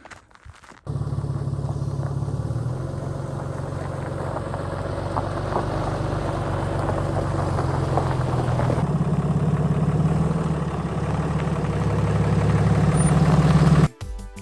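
Pickup truck engine running steadily, its pitch and loudness slowly rising, then cut off abruptly near the end.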